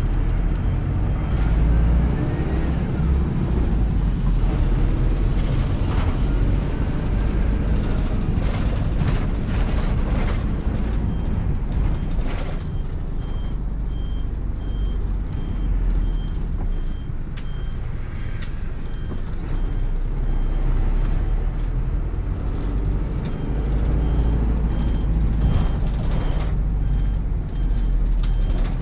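City bus running, its engine and drivetrain giving a steady low rumble with rattles and knocks. From about twelve seconds in, a short high beep repeats about twice a second, pausing briefly partway through.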